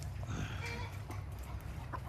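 Chickens clucking, a few short calls over a steady low rumble.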